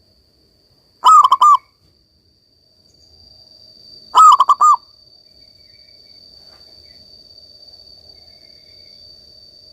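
Zebra dove (perkutut) cooing: two short phrases of rapid ringing notes, about a second in and again about four seconds in. From about three seconds in, a faint steady high hum runs underneath.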